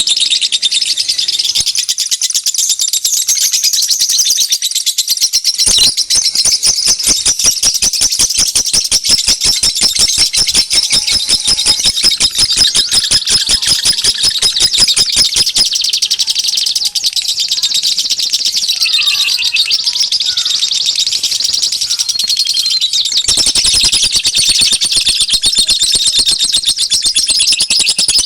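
Many small birds chirping and twittering at once: a dense, unbroken chorus of high-pitched calls, with fast runs of repeated notes through the middle. It is a bird-lure recording, played to draw wild birds in.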